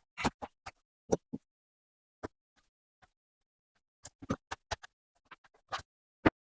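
Irregular sharp clicks and snaps of hand tools on the heater's burnt mains cable as the damaged part is cut away, about fifteen in all, the loudest near the end.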